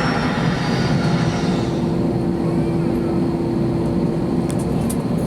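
Steady airliner cabin noise inside an Airbus A321 on the ground before takeoff: the engines and air conditioning running as an even drone, with a steady hum on one pitch.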